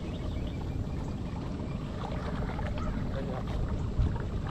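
Small boat's outboard motor running low and steady, with a brief knock about four seconds in.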